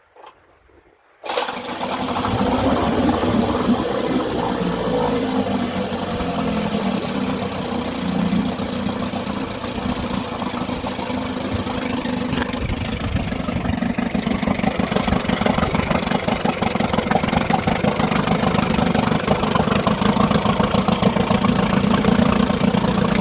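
1953 Elgin 7.5 two-stroke outboard motor starting about a second in and running, its speed wandering at first before settling into a steady run.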